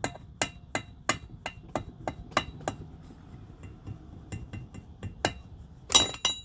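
Hammer tapping on metal, about three sharp ringing taps a second, followed by lighter, irregular ticks and a louder metal clatter near the end. It is the sound of a valve stem seal being worked off without the special removal tool.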